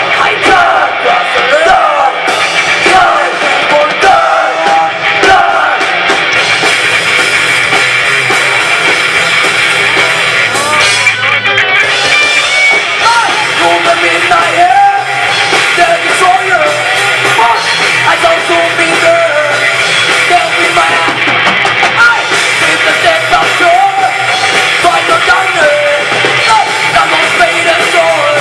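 Live rock band playing loudly, with drum kit, distorted electric guitar and a singing voice.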